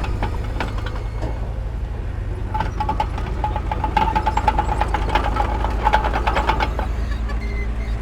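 Heavy diesel earthmoving machinery running with a steady low rumble and frequent metallic clicks and knocks. A high wavering squeal comes in about two and a half seconds in and fades out near the end.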